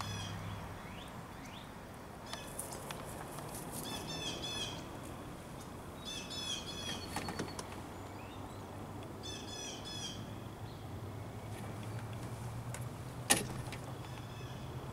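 A songbird sings four short phrases of quick, high chirping notes a few seconds apart, over a low steady hum. A single sharp click about thirteen seconds in is the loudest sound.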